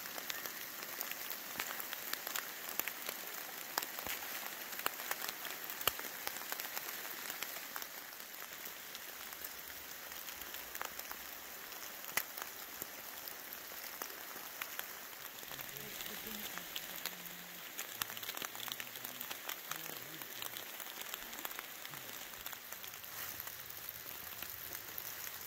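Light rain pattering on wet woodland foliage: a steady soft hiss with many irregular ticks of drops.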